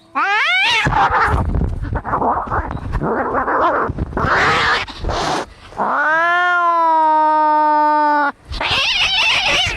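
Angry cats fighting. A rising wail opens, then noisy hissing and spitting, then a long steady yowl held for about two seconds starting about six seconds in, then more hissing.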